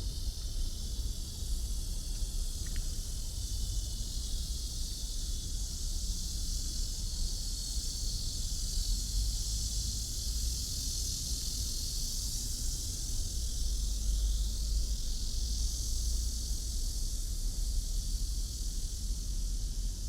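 Steady high-pitched hiss over a low rumble.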